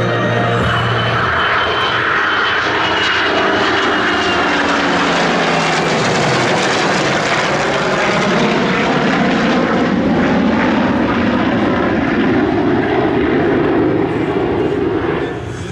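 Aircraft engine noise of a plane flying past the crowd. The sound deepens partway through and falls away near the end.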